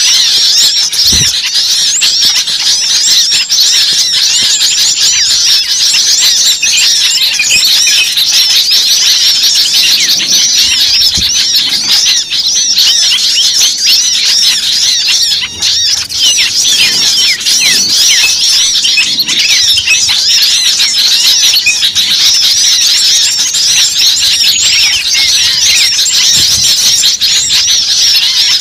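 A dense, noisy chorus of many small songbirds chirping and twittering over one another without a break, high-pitched and loud: a bird-lure recording of agitated small birds used to draw wild birds in.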